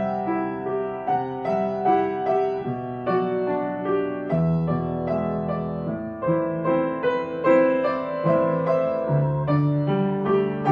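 Soft, slow solo piano music playing a gentle melody over sustained chords.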